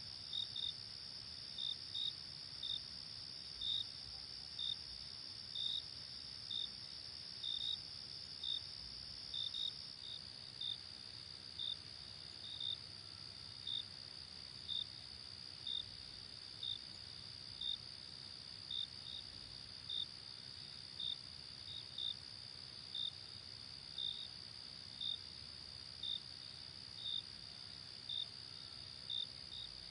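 Crickets chirping: a steady high-pitched trill with a separate short chirp repeating about once a second.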